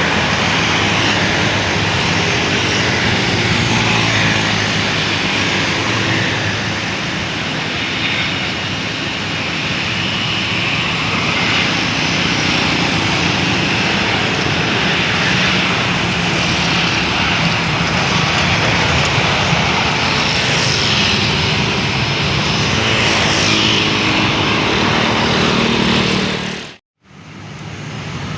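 Airliner engines running loud and steady, a rushing noise with a whine through it. About 27 seconds in the sound cuts out for a moment and comes back quieter.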